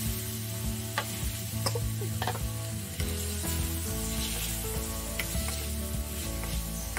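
Raw chicken pieces sizzling in hot oil and spice paste in a wok while a spatula stirs them, with a few sharp scrapes and knocks of the spatula against the pan in the first few seconds. Background music plays underneath.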